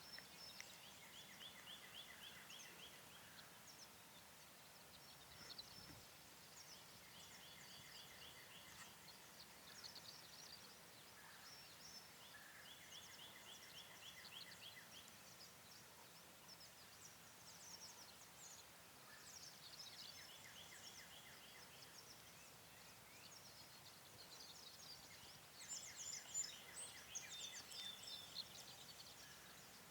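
Faint birdsong: a short, rapid, high trill repeated about every six seconds, with scattered chirps from other small birds that grow busier near the end.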